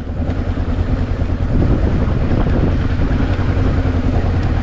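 Honda CB500X parallel-twin motorcycle engine running at a steady low drone.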